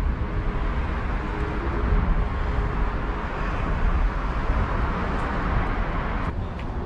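Steady outdoor background noise with a low rumble, like road traffic, and a faint click near the end.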